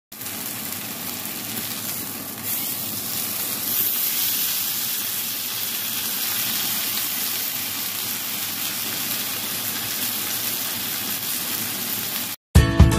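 Breaded chicken breasts frying in a grill pan, a steady sizzle. It cuts off abruptly near the end, and acoustic guitar music begins.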